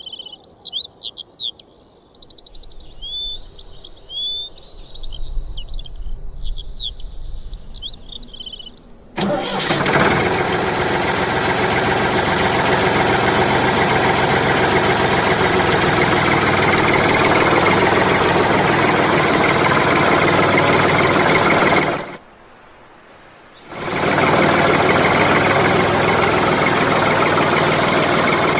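Birds chirping, then a loud, steady engine noise starts abruptly and keeps running, dropping out for a moment about two-thirds of the way through before resuming.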